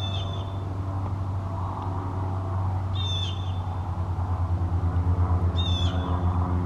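A low, steady engine drone, pulsing in the second half, with a bird giving three short harsh calls about three seconds apart.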